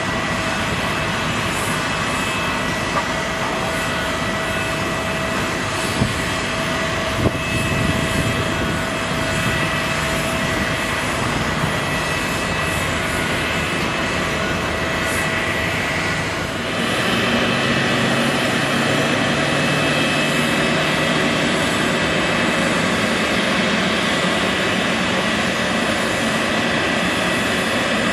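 Airbus A380's four jet engines running steadily as the airliner comes in to land, a continuous jet noise with steady whining tones. About two-thirds of the way in the sound changes and grows a little louder, and a low hum rises slowly in pitch.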